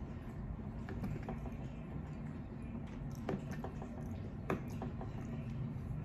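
Eating sounds: a mouthful of tater tots and hamburger being chewed, with scattered small clicks and two sharper clicks about three and four and a half seconds in, over a steady low hum.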